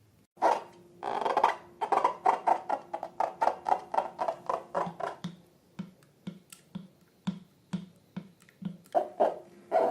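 Sticky slime being worked by hand, giving a run of short wet clicks and pops. They come about four a second at first, then slow to about two a second in the second half.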